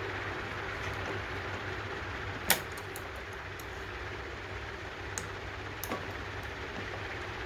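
A steady background hum with a few sharp clicks, the loudest about two and a half seconds in and two fainter ones near the end.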